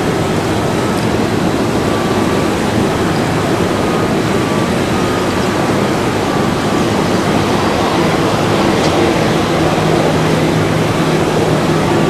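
Boeing 777-200ER jet engines running loud and steady, a dense roar with a faint steady whine in it, growing slightly louder toward the end.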